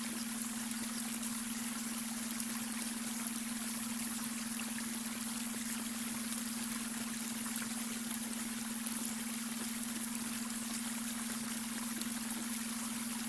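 Babbling brook: water running and splashing over stones in a steady rush. Underneath it is a constant low hum, a steady tone just above 200 Hz, the beta brainwave tone blended into the soundscape.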